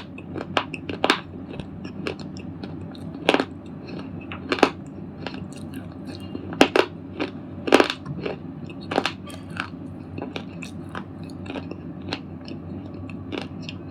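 A red slate ball being crunched into crumbly pieces: a run of sharp, irregular cracks and crackles, some loud and many faint, over a steady low hum.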